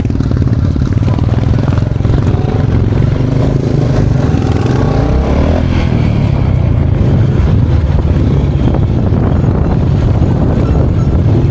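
Royal Enfield Bullet motorcycle's single-cylinder engine running steadily with a fast, even beat.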